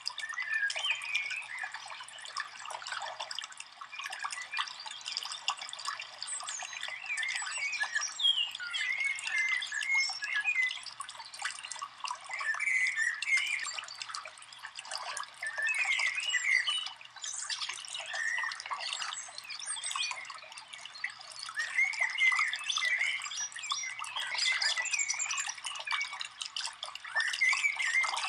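Wild birds calling and chirping over and over, short squeaky calls a second or two apart, over a steady hiss.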